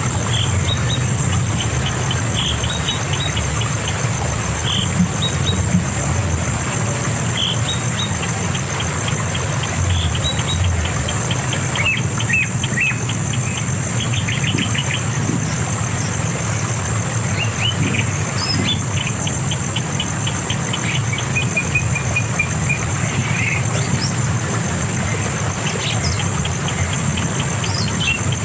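Bird calls: rapid trains of short, high chirps repeated throughout, over a steady high-pitched insect drone and a low, continuous rumble.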